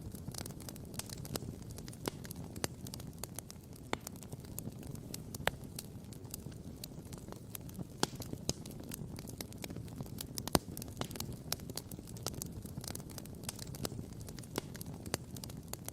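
Wood campfire crackling and popping: sharp, irregular pops and snaps over a steady low rumble, with one louder pop about two-thirds of the way through.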